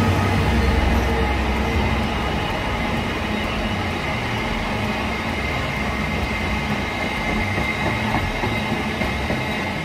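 Freight train passing close by: a GBRf Class 66 diesel locomotive's deep engine rumble easing in the first couple of seconds, then its rake of open box wagons rolling past with a steady rumble of wheels on rail and a faint high tone over it.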